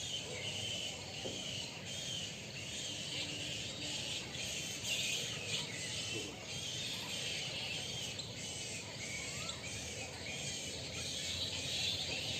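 Many small birds chirping together in a dense, continuous early-morning chorus. A few short rising calls stand out near the end.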